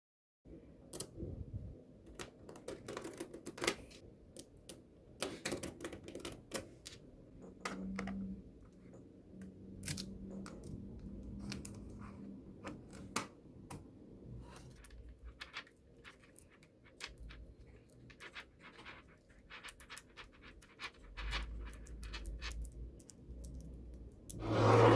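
Small magnetic balls clicking and snapping together as they are handled: many irregular sharp clicks with some scraping, and a louder knock near the end.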